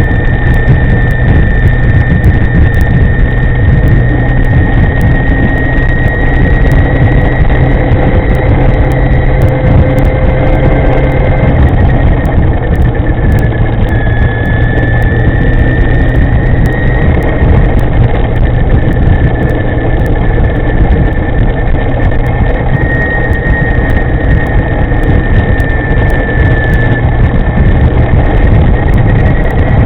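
Electric scooter (e-moving with an upgraded V200 drive) riding along: a thin high whine that drifts slightly in pitch over a loud, steady low rumble.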